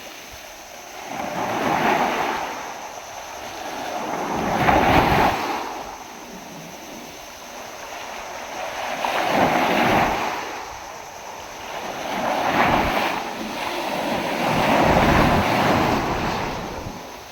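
Heavy storm surf: big waves breaking and washing in, swelling and fading about five times, with wind on the microphone.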